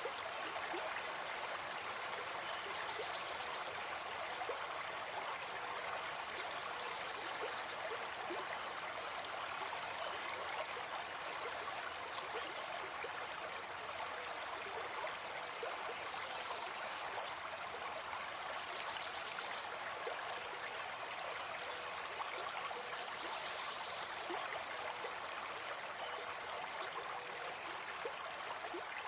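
Gentle forest stream flowing steadily, a continuous rushing and babbling of water, with a few faint, brief high chirps, like birds in the background, now and then.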